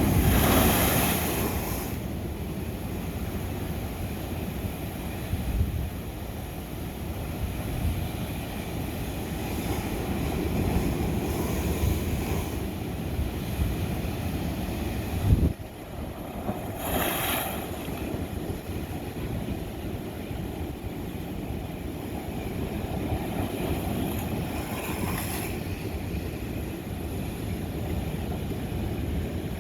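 Ocean waves breaking and washing over lava rock, with a steady low rumble of wind on the microphone. Hissing surges of spray stand out near the start, a little past halfway and again later, and a brief sharp thump comes just before the middle surge.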